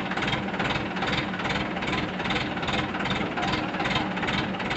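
An engine running steadily with a low hum and a regular pulsing beat, about two to three pulses a second.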